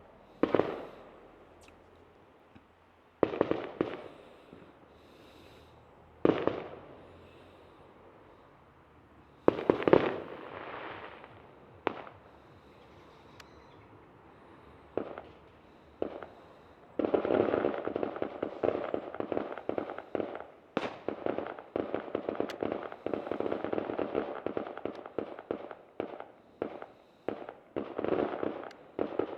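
Fireworks going off: single loud bangs a few seconds apart, each fading away, then from a little past halfway a dense barrage of rapid crackling bangs.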